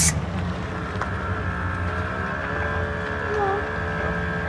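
A truck's engine runs steadily at low speed on a rough off-road descent. A steady whine joins it about a second in, and there is a short sharp knock right at the start.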